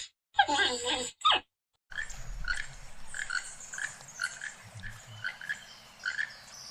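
Animal calls: a short gliding call at the start, then, after a brief gap, a run of short, evenly repeated calls, about three a second, over a noisy background.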